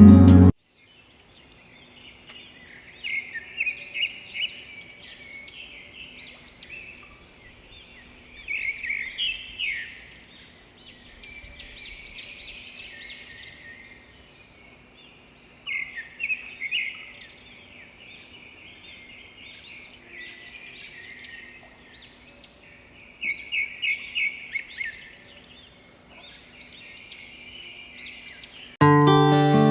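Small birds chirping and singing, with repeated quick series of short, high notes over a faint outdoor background. Guitar music stops just after the start and comes back in near the end.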